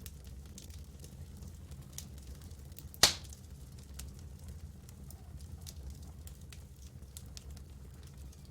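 Campfire crackling with scattered small ticks and one sharp, loud pop about three seconds in, over a steady low rumble.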